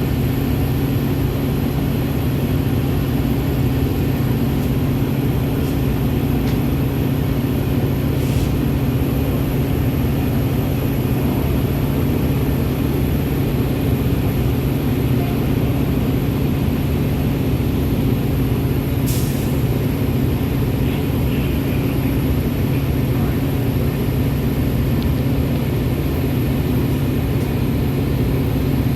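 Steady drone of a Metra commuter train, a constant low mechanical hum that holds level throughout.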